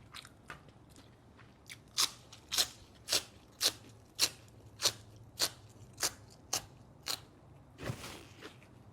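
A person chewing crunchy food close to the microphone, with a sharp crunch about twice a second and a softer rustle near the end.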